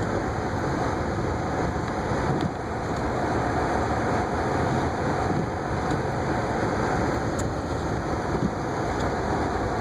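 Steady road and engine noise of a car driving through snow, heard from inside the cabin, with a slight brief dip about two and a half seconds in.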